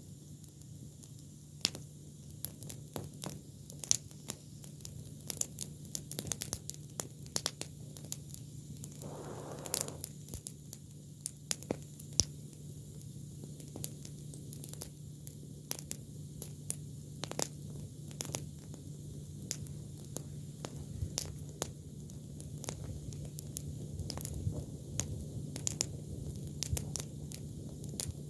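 Campfire of freshly cut, green cudrania (silkworm thorn) branches crackling, with irregular sharp pops and snaps throughout over a steady low hum, and a brief hiss about ten seconds in.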